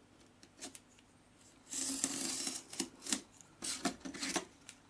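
Pencil drawing lines along a ruler on a styrofoam sheet: one longer scratchy stroke about two seconds in, then several shorter strokes.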